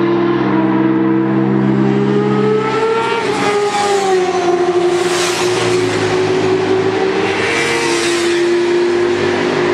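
Several sport motorcycles racing past at high revs, their engine notes gliding up and then down as they go by. The loudest rushes come about five and eight seconds in.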